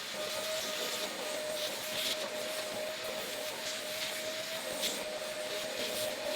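A small electric motor running steadily with a constant whine over a rushing hiss, typical of a detailing power tool or vacuum.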